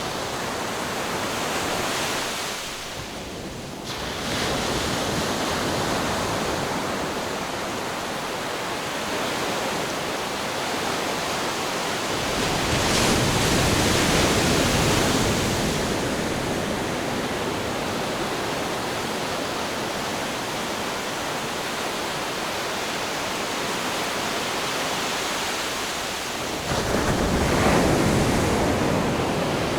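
Ocean surf: a continuous wash of water with waves breaking, swelling louder about halfway through and again near the end.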